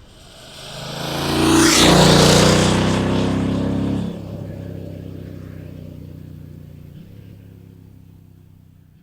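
BMW F900XR motorcycle's parallel-twin engine with its stock Euro 5 exhaust, running at a steady pitch as the bike goes past and away. The sound builds to a peak about two seconds in, drops a step around four seconds, then fades out.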